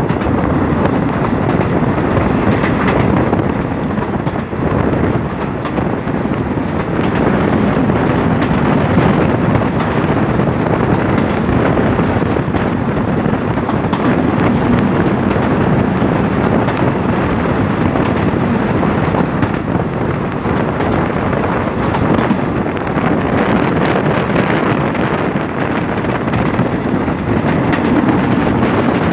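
Passenger train running at speed, heard at an open carriage window: steady rumble of wheels on the rails mixed with rushing air, and wind buffeting the microphone.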